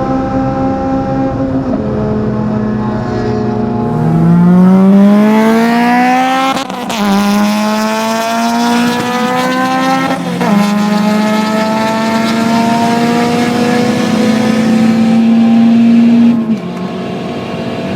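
Honda K20 inline-four engine pulling hard at high revs, its note rising and then dropping sharply at two upshifts about four seconds apart. It then holds a steady high note before the revs fall away near the end.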